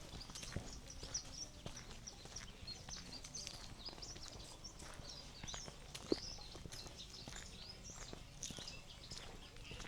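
Many birds chirping in short high calls, overlapping throughout, with soft footsteps of someone walking.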